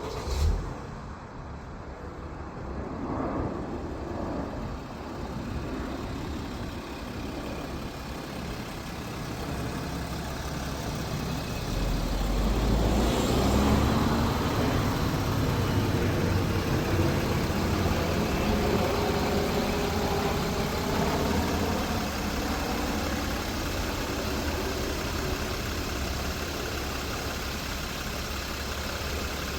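Mercedes Sprinter van's diesel engine on a cold start: a thump about half a second in, then about twelve seconds in the engine catches and gets louder before settling into a steady cold idle.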